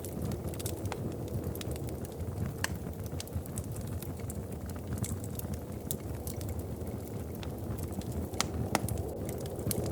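Wood fire crackling in a fireplace: irregular sharp pops and snaps, a couple of louder ones near the end, over a steady low rumble.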